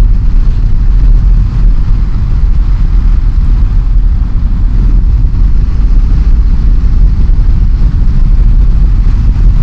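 Motorcycle riding along at speed: steady engine and road noise under a heavy low rush of wind buffeting the rider's microphone.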